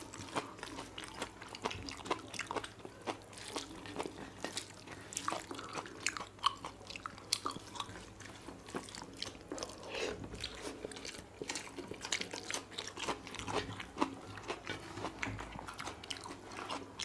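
Close-up eating sounds: a person chewing a mouthful of rice and egg curry, with irregular wet smacks and clicks.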